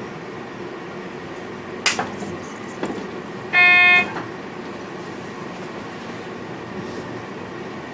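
VIRM electric train running, heard inside the driver's cab as a steady rumble, with a sharp click and a fainter one in the first half. Near the middle a single steady tone, about half a second long, sounds above the running noise as the loudest thing: a horn-like toot or cab signal tone.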